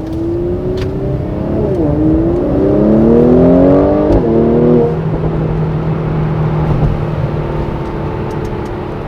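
Mercedes-AMG C43's twin-turbo V6 accelerating hard, its pitch rising through the gears. The pitch drops at a quick upshift about two seconds in, climbs again, and drops at another shift around four seconds. It then settles into a steady cruise.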